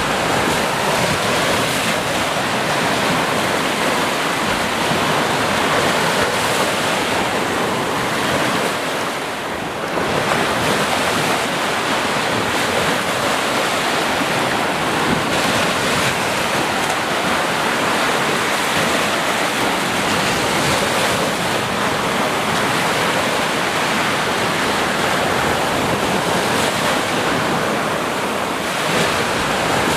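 Sea waves breaking and washing on the shore in a continuous rushing surf, with a brief lull about a third of the way in.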